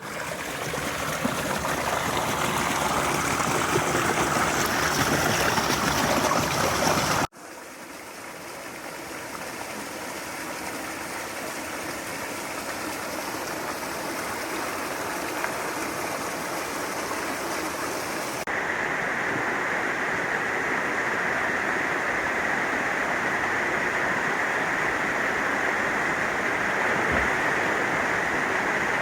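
Mountain stream rushing and splashing over rocks, a steady water noise. It changes abruptly twice, about a quarter of the way in and again past halfway, as the sound of the water shifts.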